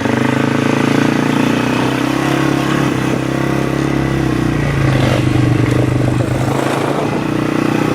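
Small off-road vehicle engine running steadily, its pitch stepping up a little about halfway through.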